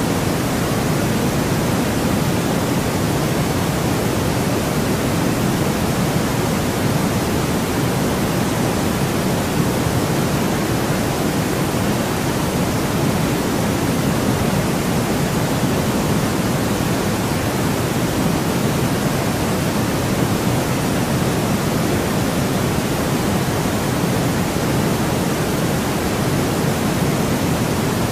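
Steady, unchanging artificial noise played as a sleep sound, an even rush with no events or changes. It is weighted toward the lower range, deeper than a bright hiss, closer to pink noise than to true white noise.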